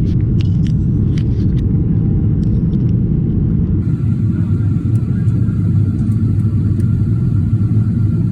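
Steady, loud low rumble of a vehicle heard from inside while it moves, with a few light clicks in the first three seconds.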